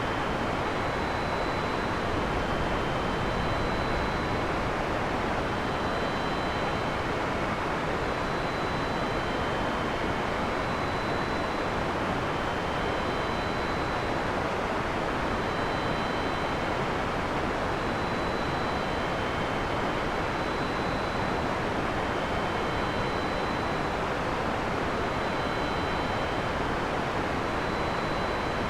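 Heavy rain falling steadily, an even hiss with no thunder, while faint high-pitched tones repeat about every two seconds.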